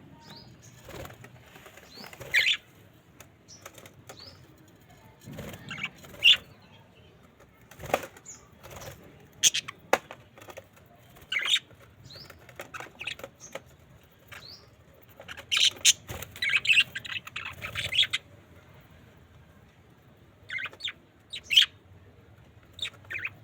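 Pet budgerigars chirping in short bursts, with wings flapping. The chirping is densest about two-thirds of the way through.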